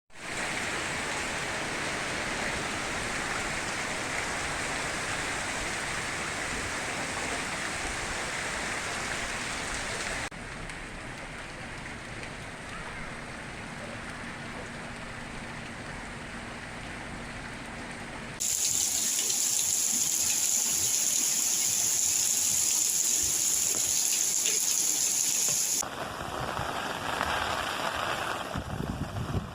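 Heavy rain falling steadily with running water, the sound changing abruptly about ten, eighteen and twenty-six seconds in as one recording cuts to the next.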